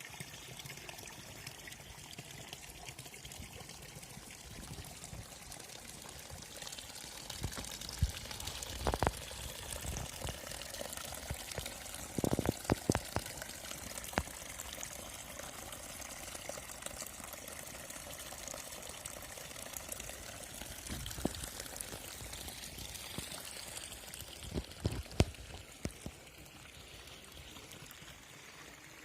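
Water pouring and splashing steadily, as from a fountain spout or a small waterfall, with a few sharp knocks in the middle and near the end.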